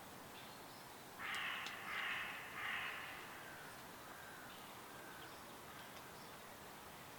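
A bird gives three harsh, loud calls in quick succession about a second in, over faint chirping of other birds.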